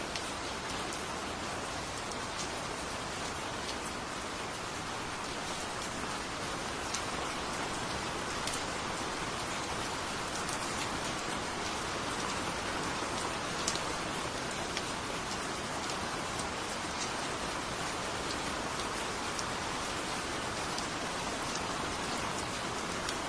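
Steady rain falling, with scattered sharper ticks of single drops striking a surface.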